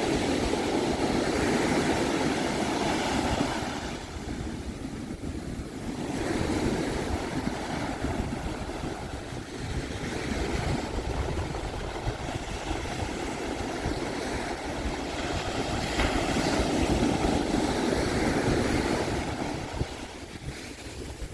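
Pacific Ocean surf washing onto a sand beach, a steady rush that swells and eases as the waves come in, loudest at the start and again about three-quarters of the way through, with wind on the microphone.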